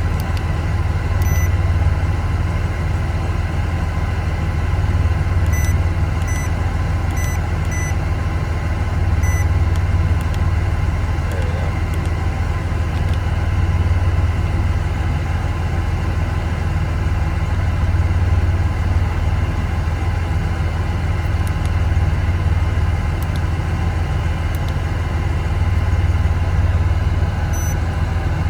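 1986 Porsche 911 Carrera's air-cooled 3.2-litre flat-six idling steadily while it warms up after a cold start.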